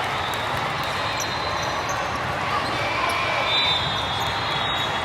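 Steady din of a busy gym during volleyball play: balls bouncing on the hard court floor over a background of crowd chatter.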